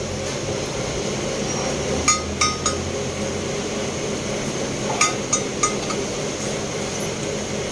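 Light metal-on-metal strikes that ring briefly, in two quick runs of three: one about two seconds in and one about five seconds in. A steady workshop hum runs underneath.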